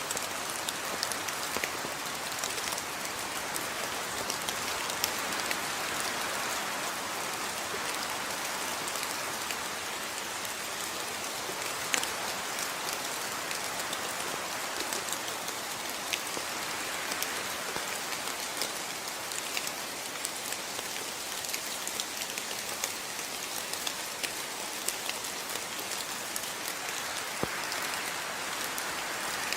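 Steady rainfall, a continuous hiss with many separate drops ticking sharply on a surface.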